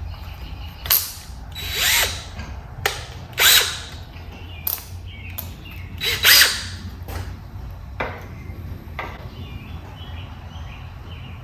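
Ratchet wrench clicking in short bursts, with sharp metal-on-metal clicks of tools, as a screw extractor is turned in a stripped, soft carburettor float-bowl screw to back it out.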